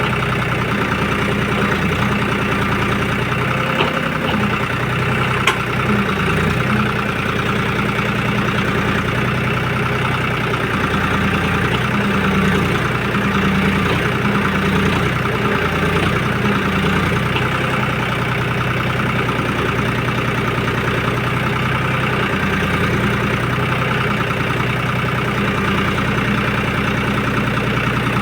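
Tractor diesel engine running steadily as it works a backhoe attachment, its pitch dipping and rising now and then. There is a sharp click about five seconds in.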